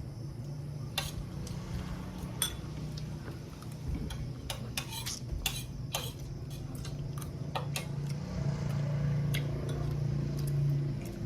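Cutlery clinking against plates and bowls during a meal: a scatter of sharp clinks, several close together around the middle, over a steady low hum.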